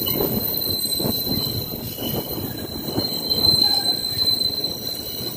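SEPTA train moving, a dense rumble with a thin, steady high whine over it.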